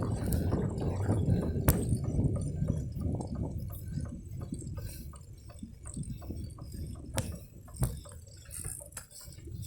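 Wind buffeting a phone's microphone on a moving bicycle, with a low rumble that eases after about three seconds and a few sharp clicks and rattles from the bike.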